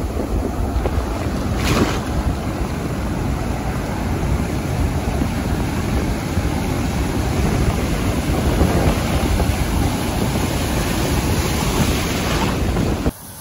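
Heavy ocean surf breaking on the beach under strong wind, with wind buffeting the microphone. A wave crashes louder about two seconds in. The roar cuts off suddenly near the end.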